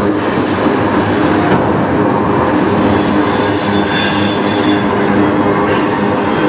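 Autorack freight cars rolling past close by: a steady loud rumble of steel wheels on rail, with steady squealing tones from the wheels over it.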